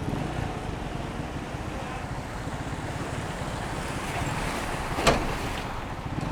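Motorcycle engine running while riding, with wind buffeting the microphone. A single sharp knock about five seconds in.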